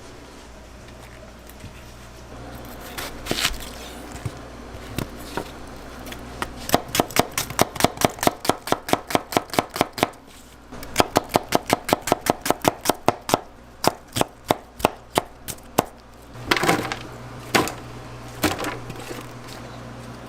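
A kitchen knife chopping fast on a cutting board, about four even strokes a second in two long runs with a short break between, then a few scattered heavier knocks near the end.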